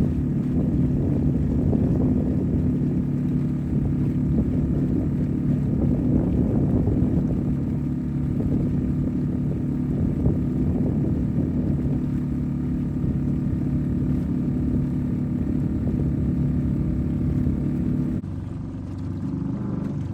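A boat's outboard motor running steadily at a constant speed, with water and wind noise mixed in. The level drops a step near the end.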